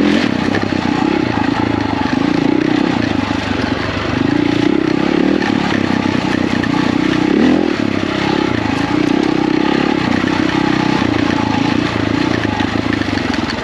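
KTM 450 EXC's single-cylinder four-stroke engine running under load while being ridden, its revs rising and falling.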